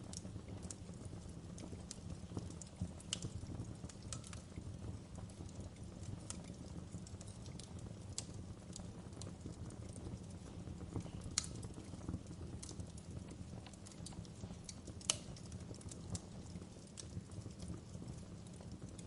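Wood fire crackling in a fireplace: irregular sharp pops and snaps over a low steady rumble, with the two loudest pops about eleven and fifteen seconds in.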